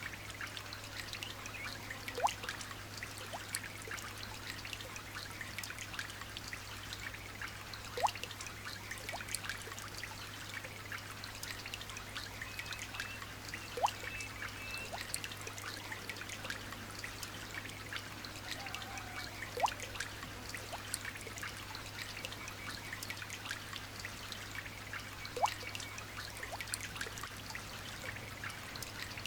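Light rain falling in a dense patter of small drips, with a louder single drop plopping about every six seconds. Faint bird chirps come in briefly near the middle.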